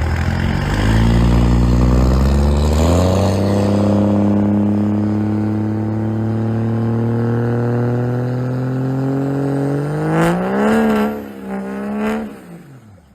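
Diesel pickup truck engine accelerating hard: the revs climb in steps over the first few seconds, then hold a long pull with the pitch slowly rising. Near the end the pitch dips and climbs twice before the sound fades away.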